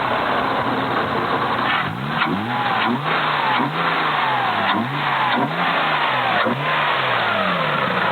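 Car engine idling, then revved in a quick series of about six or seven short blips of the throttle, each rising and falling in pitch, before settling back to idle near the end.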